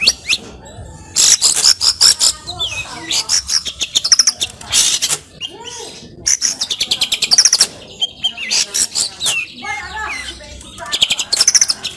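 Long-tailed shrike (cendet) in full song, a loud, varied run of fast repeated notes, trills and sweeping whistles with short pauses between phrases, packed with phrases mimicked from other birds.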